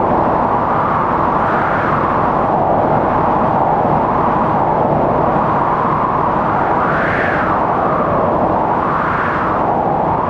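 Strong blizzard wind blowing steadily, with howling gusts that swell and rise in pitch a few times.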